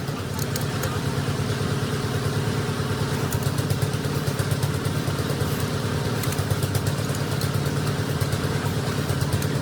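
An engine idling steadily, with an even low pulsing hum.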